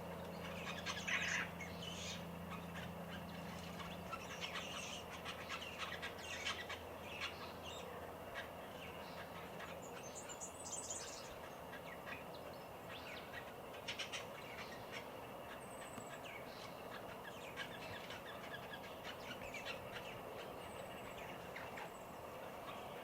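Garden birds calling: many short chirps and chattering calls scattered throughout, with a higher, thinner call about ten seconds in. A faint low hum sits underneath for the first few seconds.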